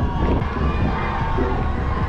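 Crowd cheering and shouting.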